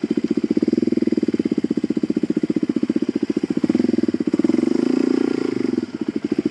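Suzuki DR-Z400 single-cylinder four-stroke engine running at low revs with a fast, even pulsing beat. It swells a little about four seconds in and eases back near the end.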